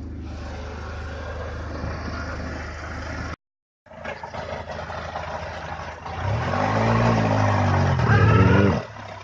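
Engine of a homemade Oka-based buggy running, then revved twice in the second half, its pitch climbing and falling each time, as the buggy works to pull itself out of a pit.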